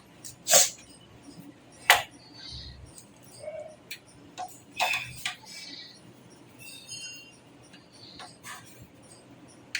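Irregular sharp clicks and metallic clinks of computer parts and screws being handled in a metal desktop case, with a brief ringing tone about seven seconds in.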